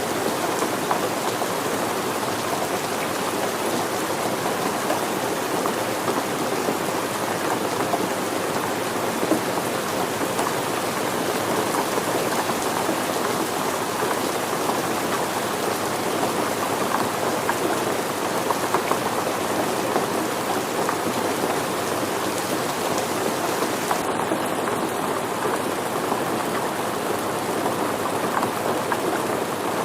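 Steady rain falling, a dense, even patter of many drops with no let-up.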